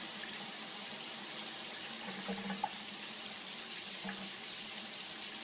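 Steady rush of running water, like a tap left running, with a faint low hum beneath it.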